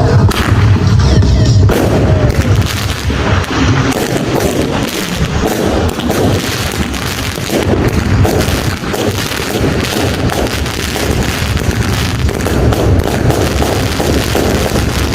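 Firecrackers and fireworks going off: a dense, irregular volley of sharp bangs and cracks, many overlapping, starting about two seconds in.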